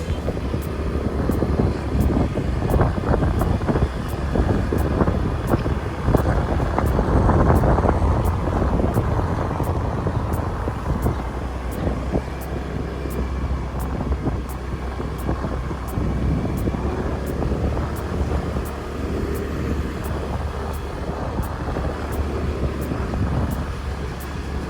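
Motorbike running on the move, a steady low engine rumble mixed with road and wind noise that swells and eases.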